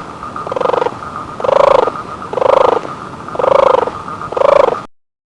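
An animal calling five times, about once a second, each call a short pitched croak, over a steady high background tone.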